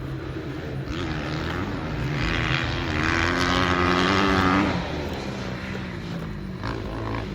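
Dirt bike engine revving under load, its pitch climbing about a second in and holding at its loudest for a couple of seconds before backing off about two-thirds of the way through.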